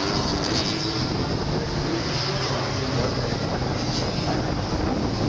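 A field of 2-litre Super Touring race cars with their engines running together, a loud, steady mass of engine noise with no single car standing out.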